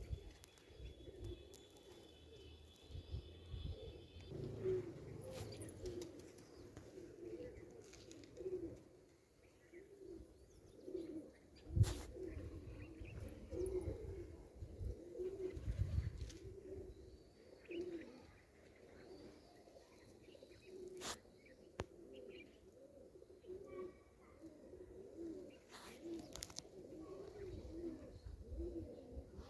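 A pigeon-family bird cooing, low calls repeated about once a second, with a thin high chirp in the first few seconds and a couple of sharp knocks.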